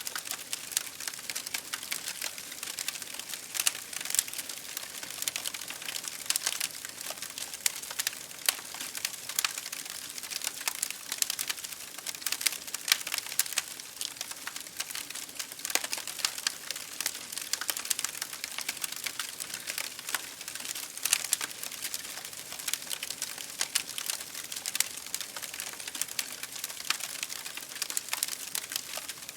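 Rain pattering on a window mixed with a wood fire crackling in a fireplace: a steady hiss full of small, sharp clicks and pops.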